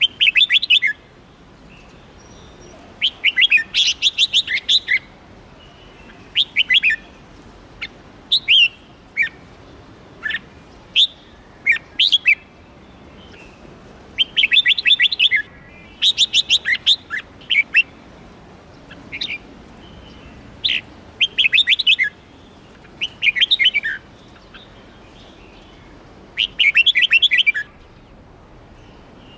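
Red-whiskered bulbul singing: short bursts of quick, chattering high notes every few seconds, with single sharp down-slurred notes in between.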